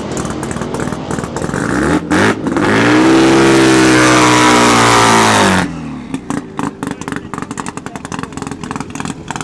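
Twin-turbo Mazda RX-7 drag car's engine with a choppy, popping idle. About two seconds in it is revved hard for about three seconds, its pitch climbing, then it cuts off sharply back to the choppy idle.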